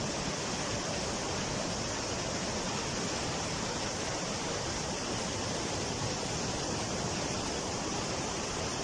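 Floodwater rushing past, a steady even noise with no breaks.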